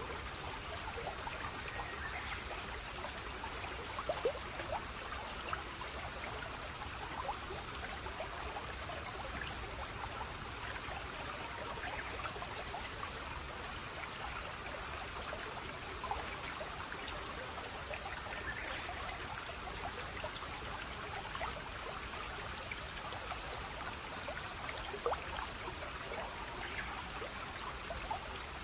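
Water trickling and babbling steadily, as in a small stream, with scattered short plinks and gurgles over the even rush.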